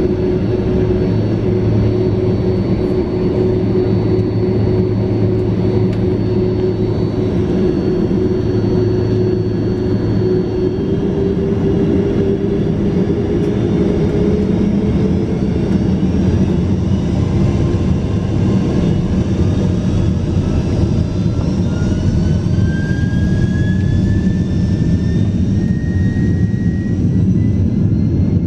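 Boeing 767-400ER jet engines heard from inside the cabin, running loudly and steadily, with a whine that climbs in pitch through the second half as the engines spool up.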